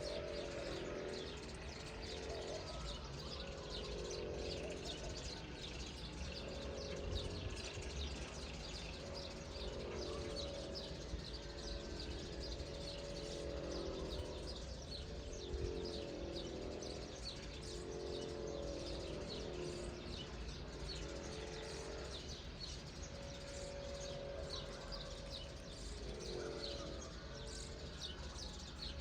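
Birds calling: many short high chirps throughout, with a lower call repeating every couple of seconds, over a steady low rumble.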